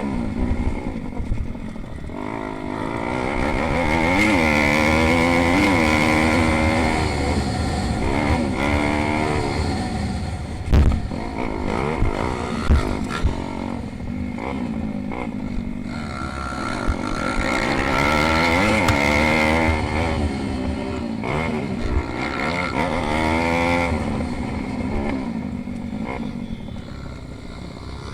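Pit bike engines revving hard, the pitch climbing and falling again and again as the bikes accelerate and shift through the race. A few sharp knocks come about halfway through.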